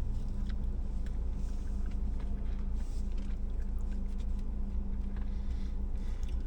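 Steady low hum of a car cabin with the engine running, with light scattered rustles and clicks of a sandwich wrapper being handled.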